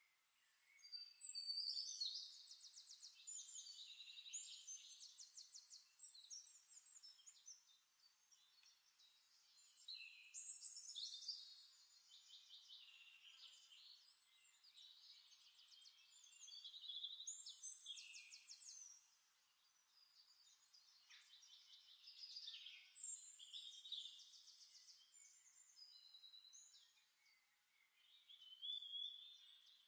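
Songbirds singing in several bouts of rapid trills and chirps, each a few seconds long, with short pauses between them.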